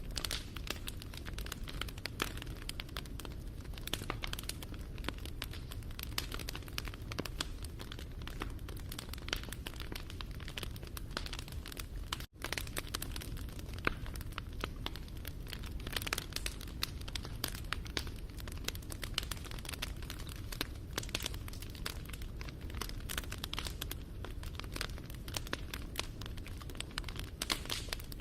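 Wood fire crackling and popping steadily, a dense run of small sharp pops over a low rumble, with a momentary dropout about twelve seconds in.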